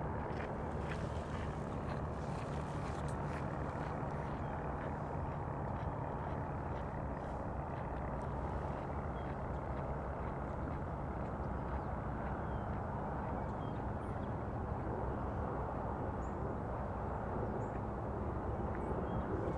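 A steady low engine drone with a constant pitch, like a motor running nearby, with a few light ticks in the first seconds and faint, short, high bird chirps here and there.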